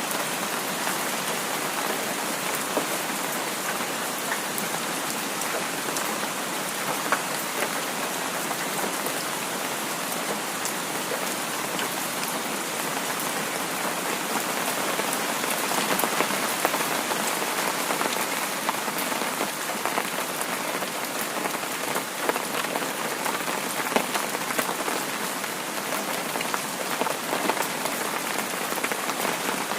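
Heavy rain falling steadily, a dense hiss full of small drop ticks, swelling slightly about halfway through.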